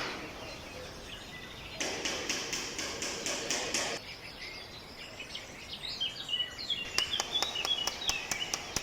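Small birds chirping in short, quick gliding notes through the second half. About two seconds in comes a two-second burst of rapid crackly rustling.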